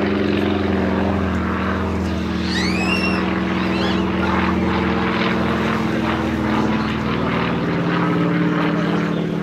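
Propeller aircraft engine droning steadily, its pitch shifting slightly as it flies. A brief rising whistle-like chirp comes about two and a half seconds in.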